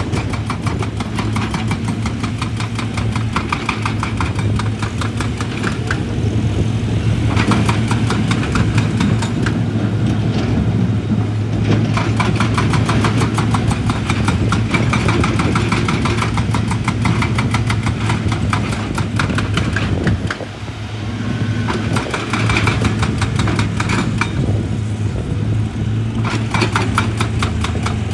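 Heavy excavator's diesel engine running steadily under load, with rapid metallic clattering over it. The engine dips briefly about two-thirds of the way through.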